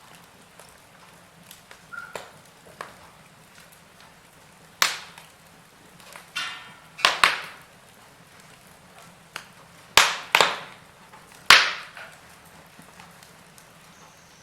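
Wood fire burning in a fireplace: a faint hiss broken by scattered sharp crackles and pops, the loudest cluster coming in the second half.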